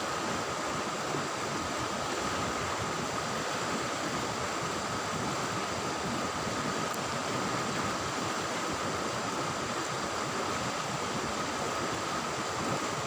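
River water rushing steadily, a constant even noise.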